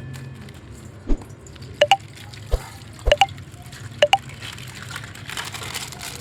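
Water dripping and plopping from a punctured plastic bag of coloured water: a handful of separate drops, some in quick pairs, followed near the end by a wetter squishing rustle.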